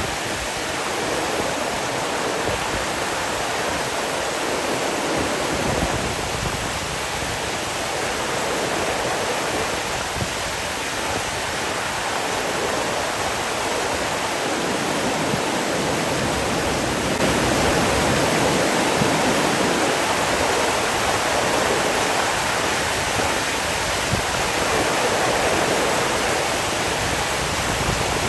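Running water rushing steadily, with no other sound; it grows a little louder about seventeen seconds in.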